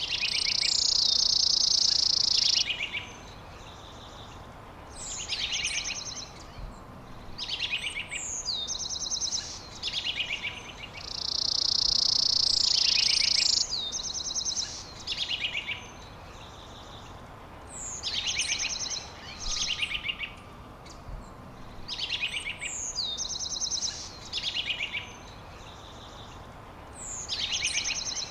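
A songbird singing short, rapid trilled phrases every second or two. Two longer, louder trills stand out, one near the start and one about halfway through.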